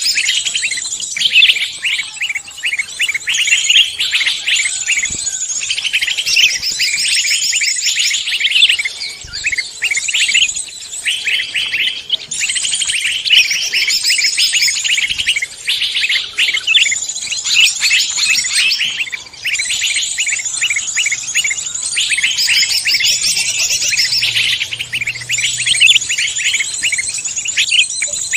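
Dense, overlapping songs and calls of several songbirds: fast chattering trills and high chirps that run on with hardly a pause. This is a recorded bird-lure mix of many songbird species.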